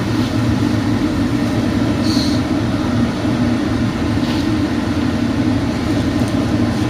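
Steady low rumble from the stove, where a pot of water is at the boil. Two faint light clinks come about two and four seconds in.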